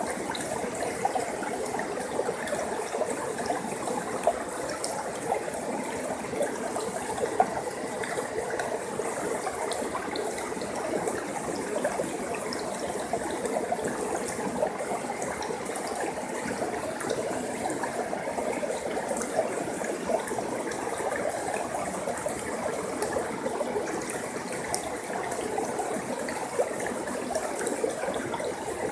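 Forest stream flowing steadily over rocks: an even rushing and babbling of water, with small splashes and drips scattered through it.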